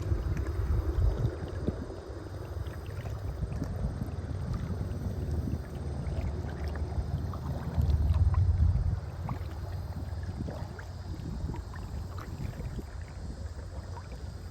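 Wind rumbling on the microphone of a kayak out on a river, gusting hardest about a second in and again around eight seconds. Faint small splashes and drips of water are heard around the boat.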